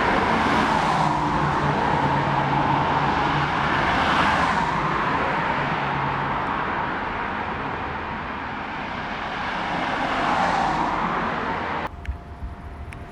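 Road traffic: a steady rush of vehicle noise with several swells as vehicles pass, cutting off suddenly near the end.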